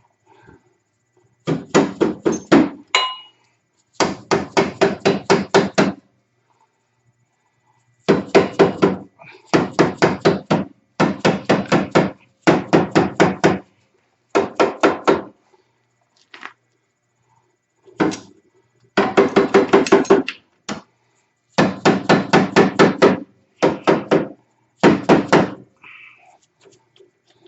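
Hammer blows in quick runs of about six to eight strikes, roughly four a second, with short pauses between runs. The hammer is driving a tight-fitting part of a side-by-side's front suspension into place.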